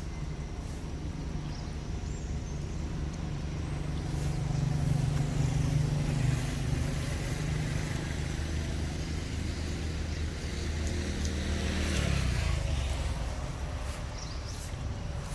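A motor vehicle's engine running, with a low hum that swells about five seconds in and again near twelve seconds, when a hiss rises with it and then fades as it passes.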